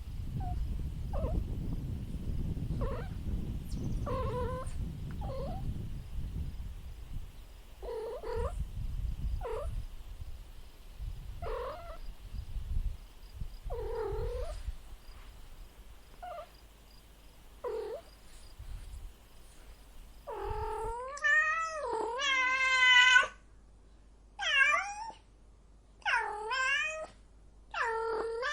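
Cat meowing repeatedly: short calls every second or two. About three-quarters of the way through come louder, longer meows, one of them drawn out over about two seconds. A low rumble sits under the first half.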